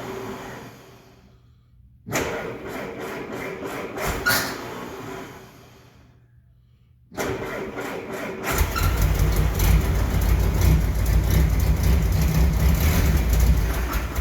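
The four-cylinder engine of a 1968 M151A1 military jeep being cranked by its starter in short tries. On the last try, a little after 7 seconds, it catches and runs for about six seconds, then cuts out near the end. It won't keep running: the jeep needs a fuel pump and carburetor rebuild.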